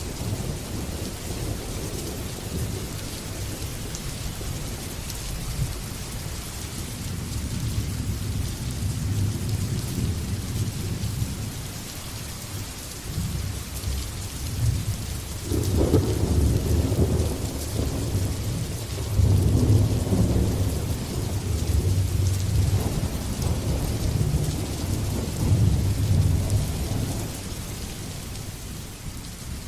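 Steady rain with rolling thunder. The rumble builds, peaks with a louder crack about halfway through, and rolls on before easing near the end.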